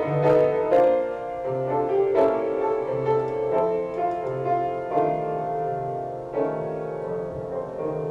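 Piano playing a slow accompaniment passage: chords struck every second or so and left to ring out.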